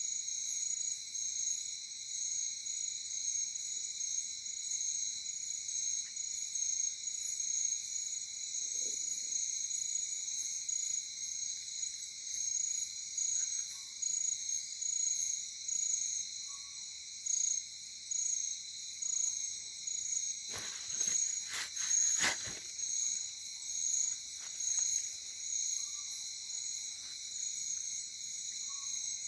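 Night forest insect chorus: crickets and other insects trilling in steady, overlapping high-pitched layers with a regular pulse. A short run of sharp clicks cuts through about two-thirds of the way in.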